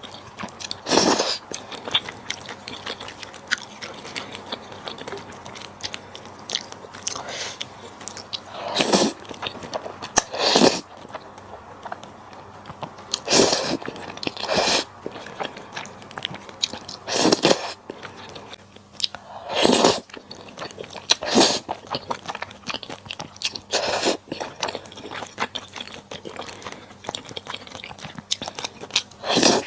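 A person eating malatang: steady chewing with a short, loud bite or slurp noise every two to three seconds.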